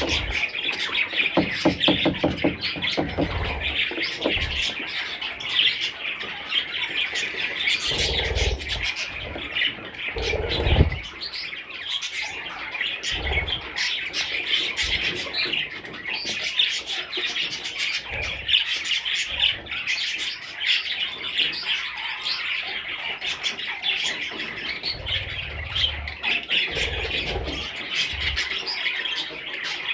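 Budgerigars chattering and chirping continuously in a dense, busy warble, with a few low thumps here and there.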